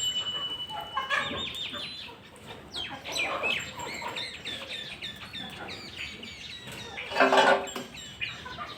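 Birds calling on a farm: a quick run of short, high chirping calls, and a louder, lower call about seven seconds in.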